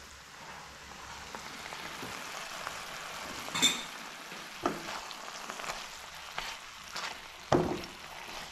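Chicken pieces sizzling as they fry in a nonstick wok, a steady hiss broken by a few sharp knocks and scrapes of a spatula against the pan.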